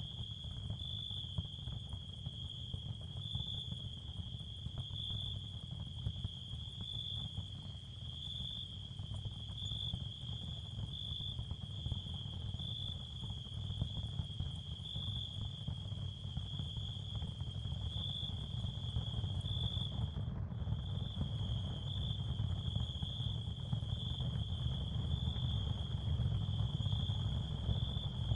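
Ambient night soundscape: a steady chorus of crickets, a high trill that pulses slightly, over a low rumble. The high trill drops out briefly about two-thirds of the way through.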